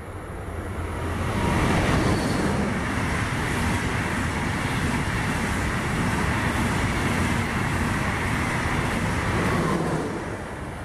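ICE 1 high-speed train passing at speed: a rush of wheel and air noise that builds over the first two seconds, holds steady for about eight seconds as the long trainset goes by, and fades near the end.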